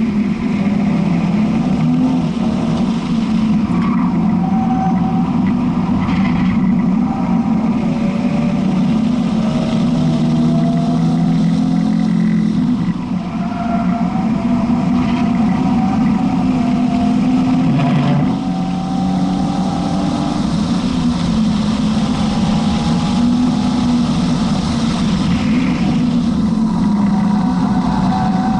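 BMW 330i's inline-six engine running hard at track pace, heard from inside the cabin, its pitch rising and falling as the car accelerates, lifts and shifts gear, with a brief dip in level about 13 and 18 seconds in.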